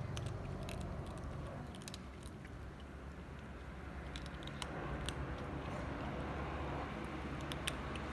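Cats chewing and crunching food, with irregular sharp clicks from their bites.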